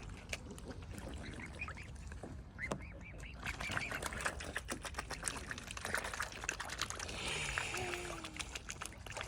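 Ducks calling over a run of many small, sharp clicks, with short high calls about two seconds in and a lower drawn-out call near the end.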